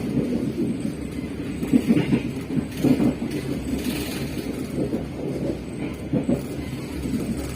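Passenger train running along the track: a steady low rumble of wheels on rail, with irregular knocks and jolts.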